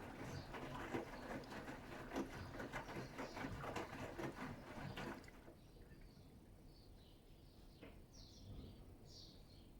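Bosch Serie 6 WAT286V0 washing machine drum turning wet laundry, with water sloshing and small knocks, stopping abruptly about five seconds in. After that only faint trickling sounds remain.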